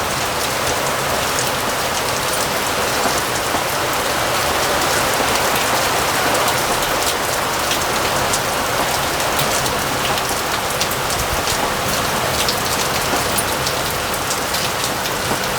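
Heavy rain pouring down steadily, with many sharp ticks of individual drops hitting a surface: a sudden downpour.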